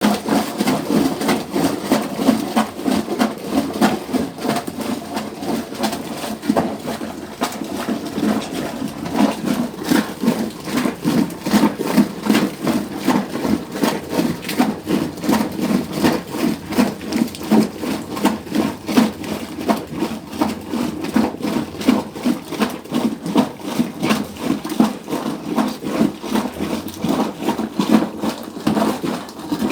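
Hand-operated manual washing machine being worked, a steady rhythmic mechanical churning that pulses a few times a second.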